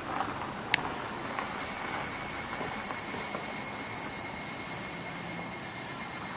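Summer cicadas calling steadily in a high, pulsing chorus, with a single sharp click about a second in.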